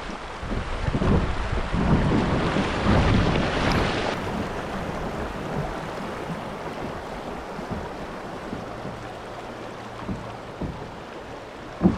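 Water sloshing and splashing around a kayak, with wind on the microphone, loudest over the first few seconds and then settling to a steady wash. A single sharp knock comes near the end.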